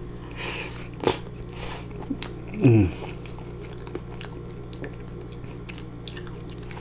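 Close-up chewing of sauce-covered fries, with small wet mouth clicks and a sharp click about a second in. A short vocal sound falls in pitch a little under three seconds in.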